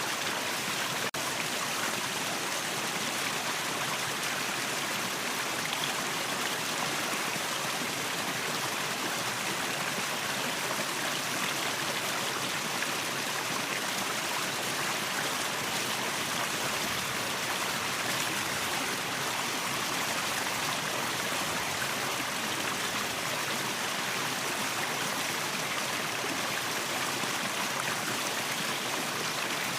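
Waterfall: a steady, even rush of falling water, with one momentary dropout about a second in.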